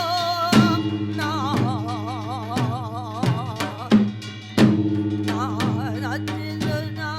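Korean traditional music: a melody with a wide, wavering vibrato over a low steady drone, marked by drum strokes about once a second.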